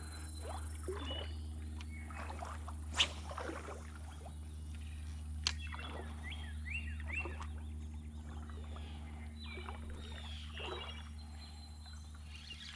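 Creek-side outdoor ambience: birds chirping over a steady low rumble, with short splashy or rustling noises now and then and two sharp clicks, about three seconds and five and a half seconds in.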